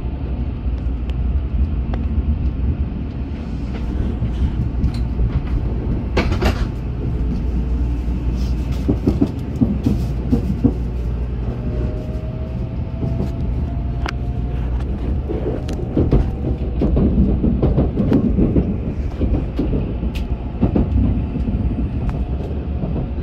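Shinkansen bullet train heard from inside the passenger car: a steady low running rumble with scattered light clicks, and a faint whine that rises slowly in pitch about halfway through.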